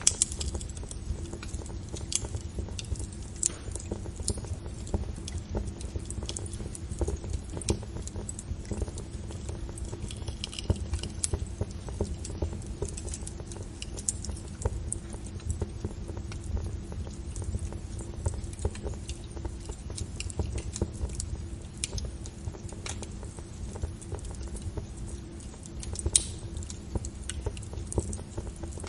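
Wood fire crackling: irregular sharp pops and snaps over a low steady rumble, with one louder pop near the end.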